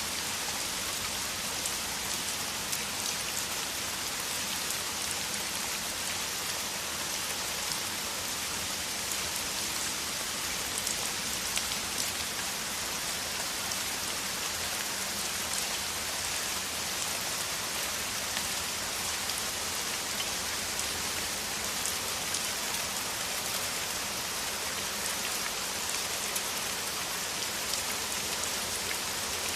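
Heavy rain falling steadily: a dense, even hiss of drops with fine individual drop ticks.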